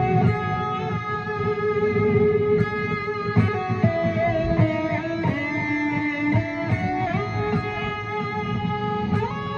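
Electric guitar played through two delay pedals, improvising in D Lydian: sustained notes ring over a low drone, with slides up to new pitches about four seconds in and again near the end.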